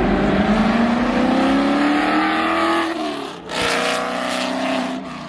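Car engine at full throttle, its pitch rising steadily for about three seconds as the car accelerates hard. A break comes about three and a half seconds in, then the engine is heard again at high revs.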